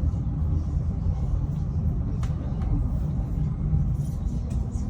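Train running, heard from inside the carriage: a steady low rumble, with a faint click about two seconds in.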